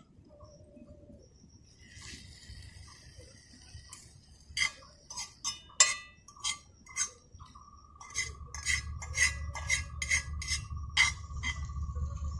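Dishes and utensils clinking: a run of sharp clinks, some ringing briefly. About two-thirds of the way in, a steady high tone and a low rumble join them.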